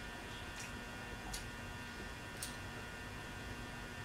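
Quiet chewing of pizza, with three faint, sharp mouth clicks spread over the first two and a half seconds, over a steady electrical hum.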